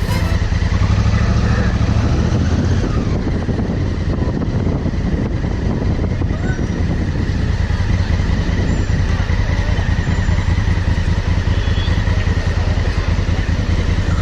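Honda CRF1000L Africa Twin's parallel-twin engine running at a steady speed on the road, with a steady rush of noise over it.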